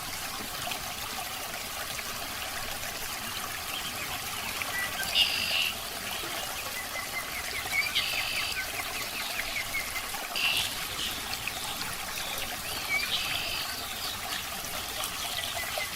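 Aquarium water trickling steadily. Short, high chirps break in about four times.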